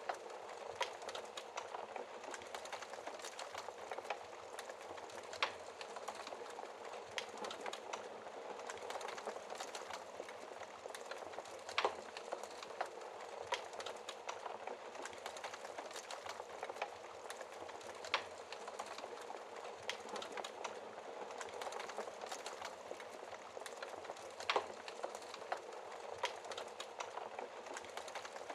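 Wood fire burning in a fireplace: a steady hiss of flames with constant small crackles and a louder pop every few seconds.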